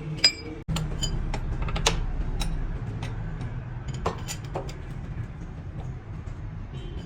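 Irregular metallic taps and clinks of tools on metal, one of them ringing out near the start, over a steady low hum.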